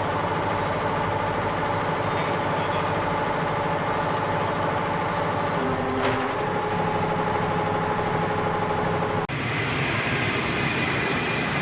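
Computerized embroidery machine running steadily, with a steady mechanical hum. A click comes about six seconds in, and the sound breaks off abruptly and resumes a little changed about nine seconds in.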